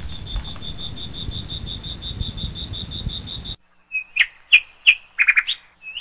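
Birds chirping. First comes a rapid, even run of high notes, about seven a second, over a low rumble, which cuts off abruptly about three and a half seconds in. Separate short chirps and quick trills follow.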